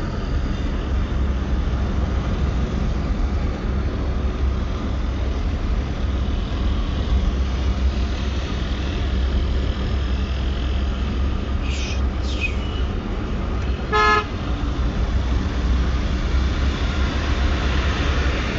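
Steady low rumble of a road vehicle in motion, with one short horn honk about three-quarters of the way through.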